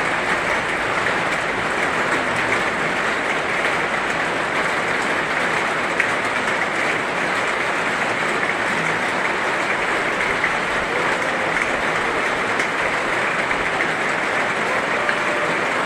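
Heavy rain falling steadily, a dense even hiss of countless drops with no breaks or surges.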